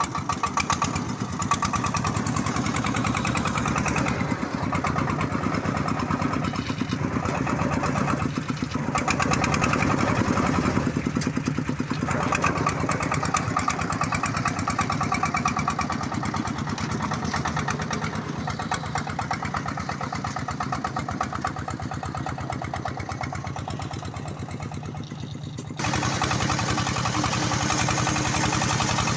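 Single-cylinder diesel engine of a công nông farm truck running with a rapid, even firing beat; the sound changes abruptly and gets louder near the end.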